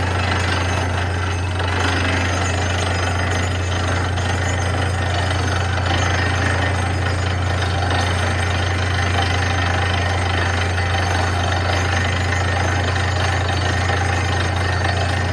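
Borewell drilling rig running steadily at work, its engine's deep constant hum under a dense, rattling hammering noise of drilling.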